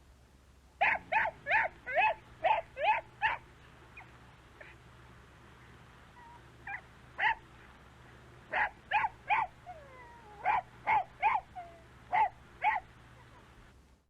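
Dog barking in quick runs of short, sharp barks: about seven in a row, then after a pause several more groups of two or three.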